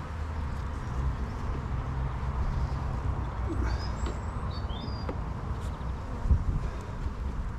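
Honeybees humming steadily in an open hive as its frames are handled. A few brief bird chirps come through midway, and a dull knock sounds about six seconds in.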